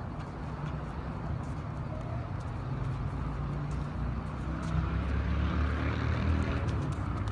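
A motor vehicle's engine passing by, a low hum that swells about halfway through, with a few faint clicks over it.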